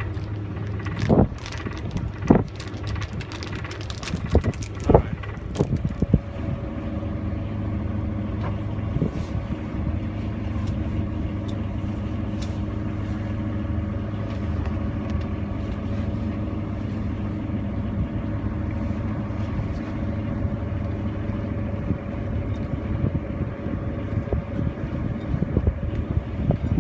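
A boat engine running steadily with a low, even hum, with several sharp knocks and clatters in the first few seconds.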